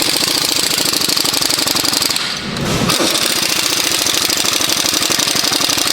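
Welding arc crackling and buzzing steadily as a fast run of sharp clicks, with a short lull about two and a half seconds in.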